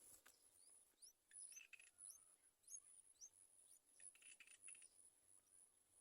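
Faint outdoor nature sound: a steady, high, pulsing insect chirring, with a run of about six short rising bird chirps in the first half.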